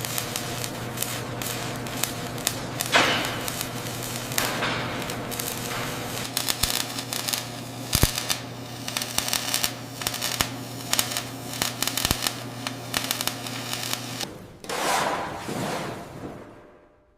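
A steady industrial machine hum under dense crackling and clicking, with a few whooshes. The hum cuts off about fourteen seconds in, and the sound fades away near the end.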